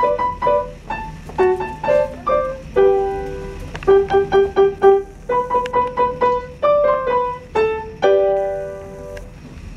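Piano playing short, detached treble notes with quick repeated-note figures. It ends on a chord struck about eight seconds in and left to ring and fade.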